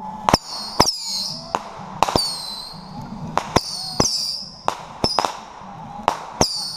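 Homemade Roman candle 'mini-gun' firing: about a dozen sharp pops at roughly two a second, unevenly spaced, each followed by a short high whistle that falls in pitch as the shot flies off.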